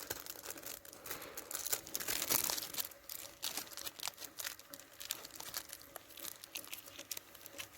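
Wood fire crackling and popping in a titanium camp stove: dense, irregular small cracks, busiest about two seconds in.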